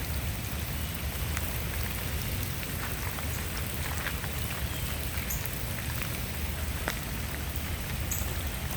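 Steady heavy rain falling during a flash flood, a constant hiss with scattered drops ticking sharply throughout.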